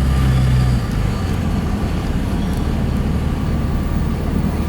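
Pickup truck driving slowly, its engine running with a low steady hum that drops in pitch about a second in as the engine eases off.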